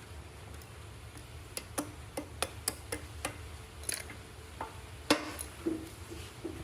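Irregular light clicks and taps, about a dozen, the sharpest a little past the five-second mark, over a steady low hum.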